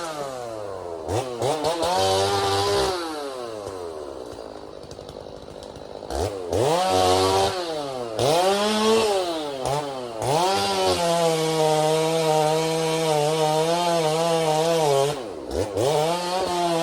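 Two-stroke chainsaw revved up and back down in repeated short bursts, idling for a few seconds between, then held at high revs from about two-thirds of the way in, dipping once briefly near the end. This is the sound of brushing out small growth to open escape routes.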